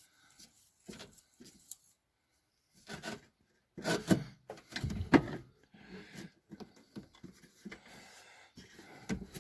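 Hand work on a throttle-body injection unit: scattered clicks, knocks and rubbing of tools and metal parts, loudest about four to five seconds in.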